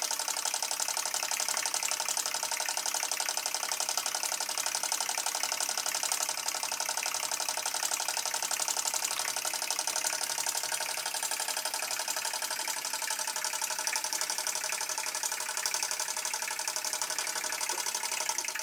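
TTB V2 model steam engine running steadily on live steam: a fast, even chuff of exhaust beats over a hiss of steam.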